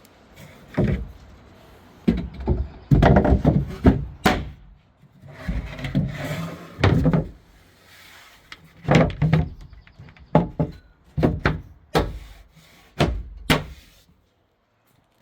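Wooden storage compartment doors and drawers of a truck-bed camp kitchen being opened and shut: a run of knocks, thuds and short sliding scrapes, irregularly spaced, stopping about a second before the end.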